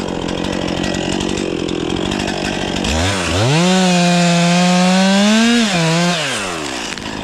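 Stihl 500i fuel-injected two-stroke chainsaw idling unevenly, then revved sharply to full throttle about three seconds in, held there for a couple of seconds and released back down to idle near the end.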